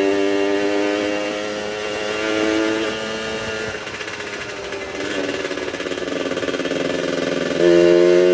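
Suzuki FIZR 110 single-cylinder two-stroke engine running. It holds a steady note, drops back about three seconds in, then abruptly comes back up louder near the end.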